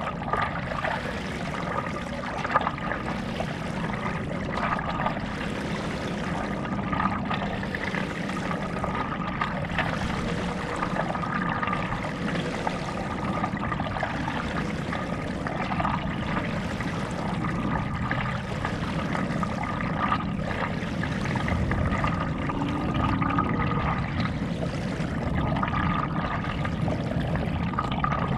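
Stand-up paddleboard paddle strokes on calm lake water: the blade dips and pulls through the water every second or two, with water splashing and trickling off it in between.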